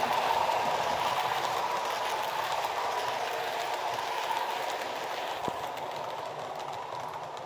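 Model train running on the track, a steady running noise with faint ticks that fades gradually.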